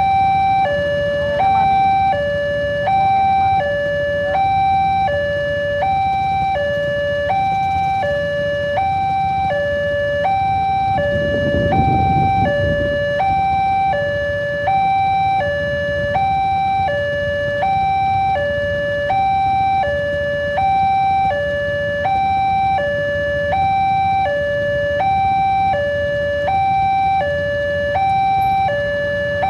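Railway level-crossing warning alarm sounding while the barrier is down, two electronic tones alternating high and low about every 0.7 seconds. A steady low rumble runs underneath and swells briefly about twelve seconds in.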